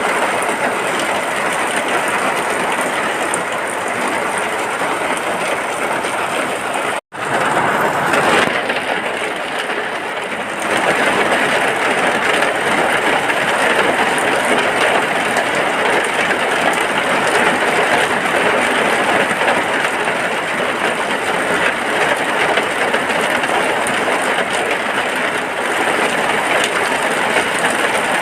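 Heavy rain falling steadily on a hut, an even hiss of rain noise. About seven seconds in it cuts out for a moment, then comes back, a little louder from about ten seconds on.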